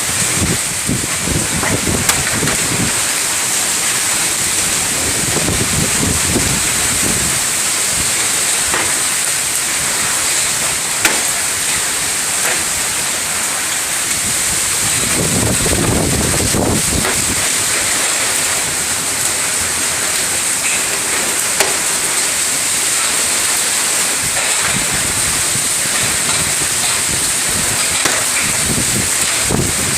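Heavy storm rain pouring down in a steady loud hiss, with a few sharp ticks and several low rumbling swells.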